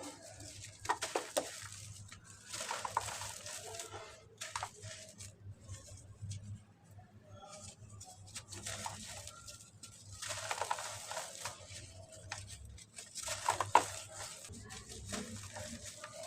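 Soft cement with white grains crumbling in water, in irregular bursts of gritty crackling with sharp little snaps between quieter gaps.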